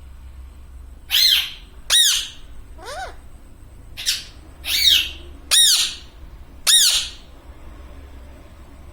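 Pet parrot giving a run of about seven loud, harsh calls between about one and seven seconds in, several rising and then falling in pitch.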